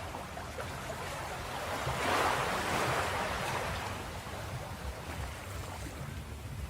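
Ocean waves breaking on a beach: a steady wash of surf with one wave swelling louder a couple of seconds in and then fading back.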